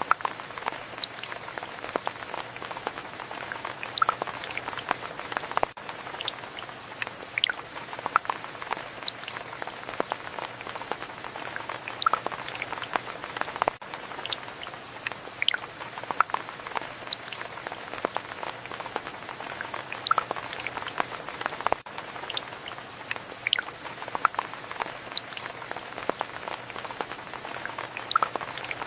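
Rain: a steady patter with many separate drops plinking at irregular intervals.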